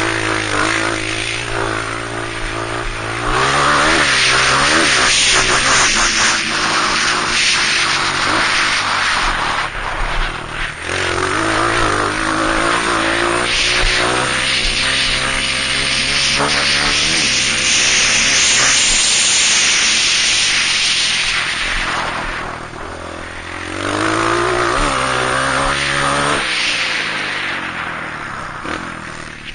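Honda CRF230 dirt bike's single-cylinder four-stroke engine revving up and falling back again and again as it accelerates, shifts and brakes around the track, over a loud rushing noise. The sound fades toward the end.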